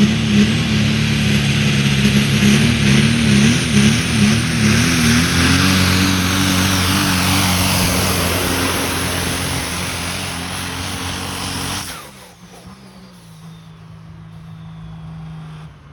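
A pulling truck's engine at full throttle under load down the track, its pitch wavering in the first few seconds and the sound slowly fading. About twelve seconds in it cuts off sharply to a much quieter, lower steady drone as the throttle comes off.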